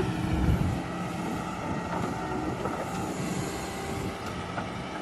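Heavy diesel engine running steadily, with wind on the microphone.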